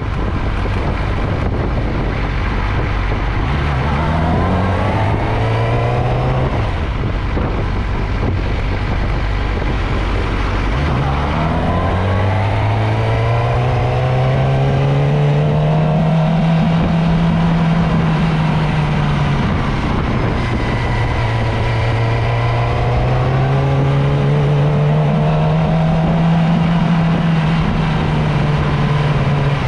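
Motorcycle engine under way, its pitch climbing and falling as the throttle opens and closes. It rises a few seconds in and drops off, then climbs again, holds high through the middle, eases off and rises once more in the last third.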